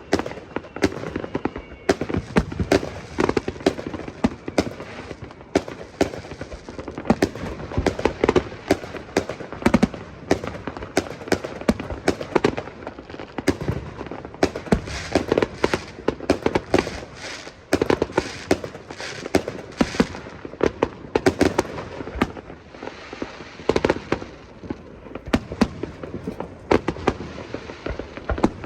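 Fireworks display: a dense, continuous run of sharp bangs and crackles, many shells bursting each second.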